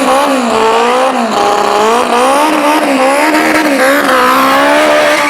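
Turbocharged Honda Civic four-cylinder engine revving hard, its pitch climbing and dropping again and again in quick succession.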